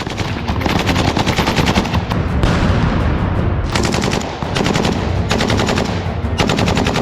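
Rapid automatic gunfire in long bursts with a few short breaks, like a machine gun firing continuously.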